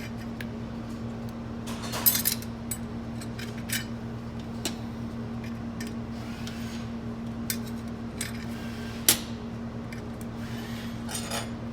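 Steel and friction clutch plates clinking as they are laid one by one into an automatic transmission's clutch drum to build up the D clutch pack. The clinks are scattered, the sharpest about two seconds in and again about nine seconds in, over a steady low hum.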